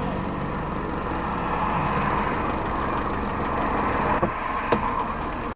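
Steady road and engine noise of a car driving, with two short knocks near the end.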